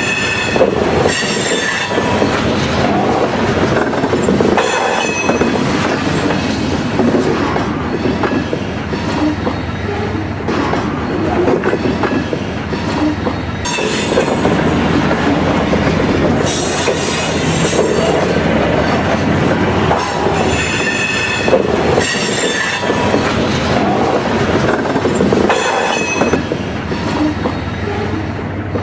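Dubbed-in sound of freight cars rolling past: a steady rumble and clatter, with high wheel squeals that come and go every few seconds.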